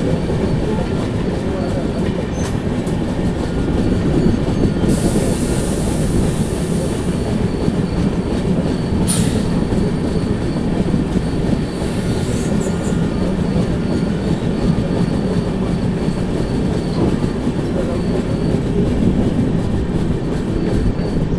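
Passenger train of the Duronto Express running, a steady rumble of wheels on the track. About five seconds in comes a hiss lasting a couple of seconds, and around nine seconds a single sharp click.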